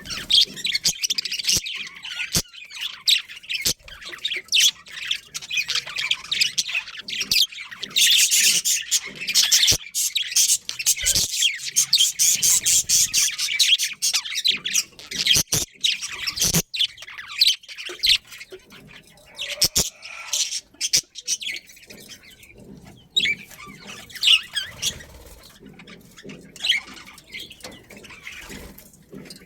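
A flock of budgerigars chattering: many rapid overlapping chirps and squawks with scattered sharp clicks, busiest in the first half and thinning out about halfway through.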